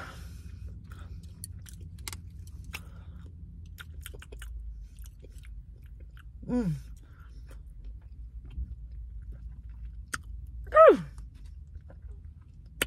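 Close-up chewing and wet mouth clicks of a person eating a sushi roll, broken by two short hummed "mm" sounds of enjoyment, one about six and a half seconds in and one near eleven seconds.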